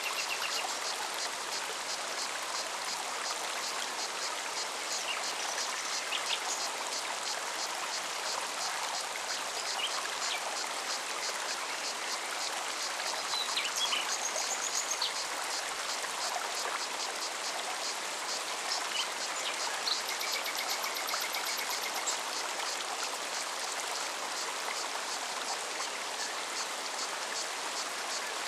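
Mountain forest stream flowing steadily, with a cicada's rapid, even pulsing song running through it and a few short bird chirps.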